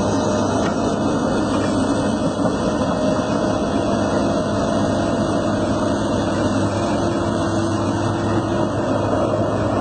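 Heavy transport truck's engine running steadily, a continuous low hum and rumble with no breaks.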